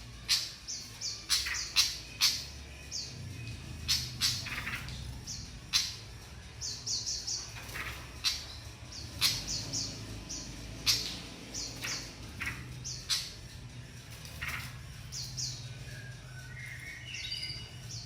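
Sikatan (flycatcher) practising its basic chattering song: short high chirps in quick runs of two to four, mixed with sharp clicking ticks.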